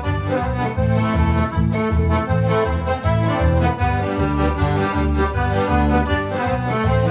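Accordion playing an instrumental break of a country-style song: held chords over a steady, rhythmic bass line.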